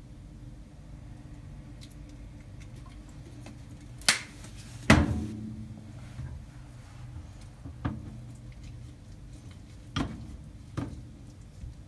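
Kitchen clatter: dishes or utensils knocked and set down on a counter, a few sharp knocks with the two loudest about four and five seconds in, the second ringing briefly, over a low steady hum.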